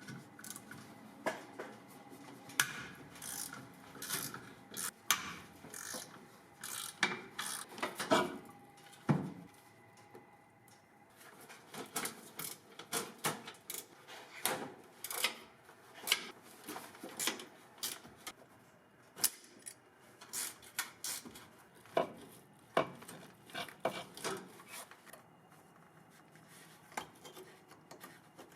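Hand tools working on a 1978 Ford F150 to remove its brake booster: irregular clicks, knocks and short scraping and rubbing sounds of metal tools on parts, with bursts of activity and brief pauses.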